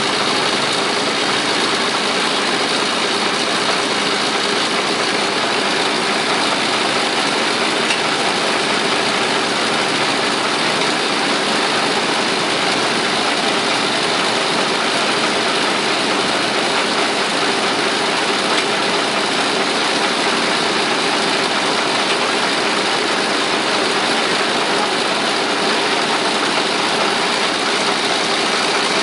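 Vintage Caterpillar D13000 diesel engine running steadily, with no change in speed or load.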